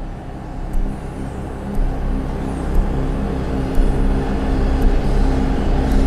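A motor vehicle's engine running steadily and slowly growing louder, with faint high ticks about once a second.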